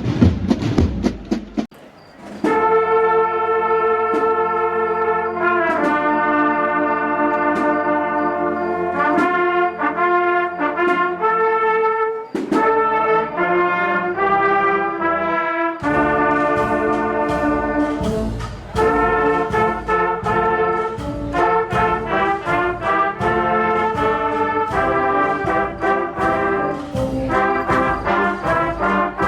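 Brass band playing a slow processional march, with sustained brass chords. The low end fills in about halfway through.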